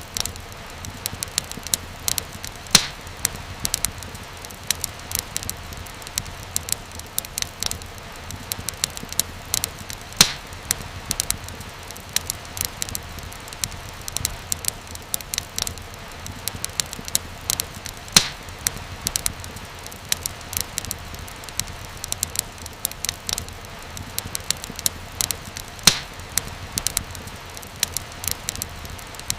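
Fireplace fire crackling, with many quick small pops over a steady low hiss. A louder snap comes about every eight seconds.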